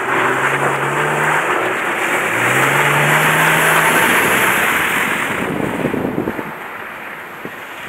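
Audi A4 B6 3.0 quattro's V6 engine revving as the car is driven over snow, its pitch rising about two and a half seconds in, over a loud rushing hiss. From about halfway the sound fades as the car moves away.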